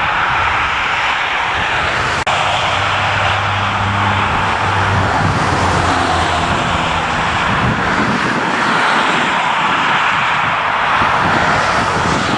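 Jet airliner engines running, a loud steady noise with a low hum from about three to seven seconds in. There is a momentary break about two seconds in.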